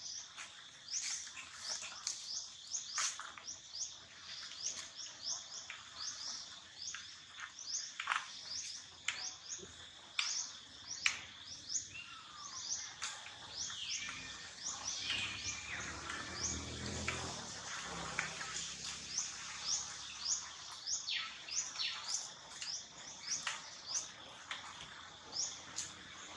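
Small birds chirping: many short, high, rising chirps repeated a couple of times a second over a steady high tone. A lower, rougher sound joins for a few seconds around the middle.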